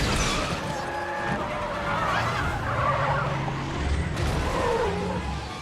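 A car's tyres screeching in wavering squeals over road and engine noise.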